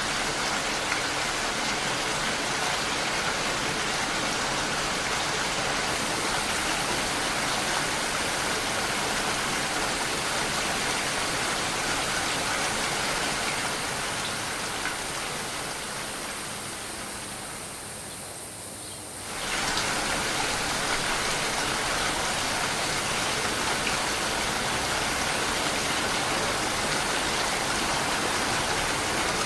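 Steady rain, an even hiss across the whole range. About halfway through it fades down for a few seconds, then cuts suddenly back in at full level.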